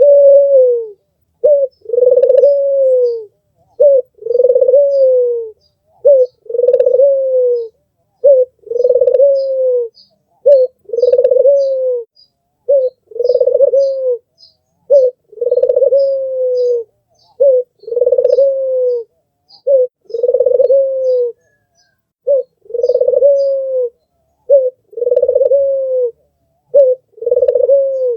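White, red-eyed puter (domestic ringneck dove) cooing over and over, about one phrase every two seconds. Each phrase is a short clipped note followed by a longer, slightly falling coo.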